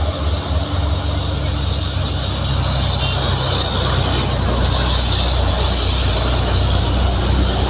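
Hino truck's diesel engine running steadily, a low, even drone with road and wind noise over it.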